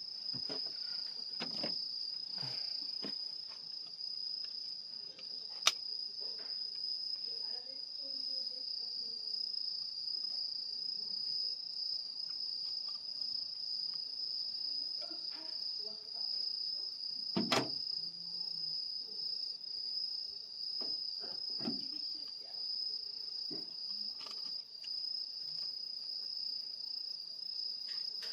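Steady, unbroken high-pitched chorus of crickets, with scattered soft knocks and two sharp clicks, one about six seconds in and one about seventeen seconds in.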